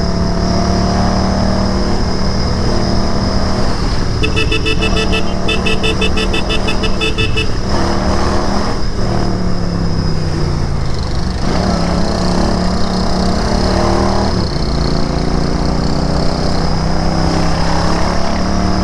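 Royal Enfield Interceptor 650's 648 cc parallel-twin engine running under way, its note rising and falling with the throttle several times. Between about four and seven seconds in, a rapid, high, evenly pulsed beeping sounds over the engine, with a short break in the middle.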